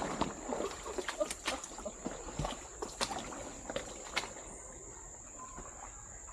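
A steady high-pitched insect drone of tropical forest. Irregular footsteps and clicks of people walking on the trail run through the first four seconds or so, then thin out.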